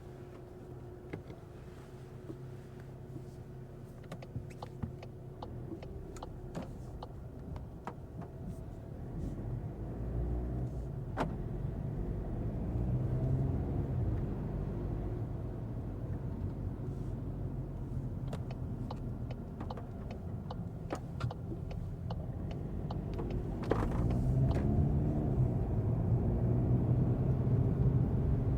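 2025 Volkswagen Golf's 2.0-litre four-cylinder TDI diesel and its tyres running on a wet road as a steady low rumble. It swells as the car accelerates about a third of the way in and again near the end, with scattered sharp clicks throughout.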